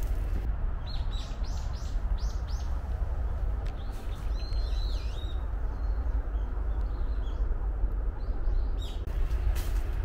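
Small birds chirping: a quick run of short high chirps about a second in, a warbling call around the middle, then a few scattered chirps, over a steady low background rumble.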